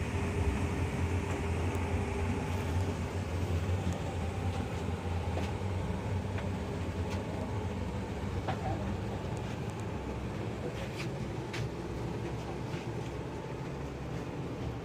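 Steady low rumble of a vehicle in motion, with scattered light clicks and rattles.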